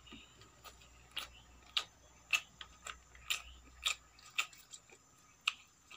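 Close-miked chewing of a mouthful of rice and vegetable sabji: a string of sharp, wet mouth clicks about every half second, with a longer gap near the end.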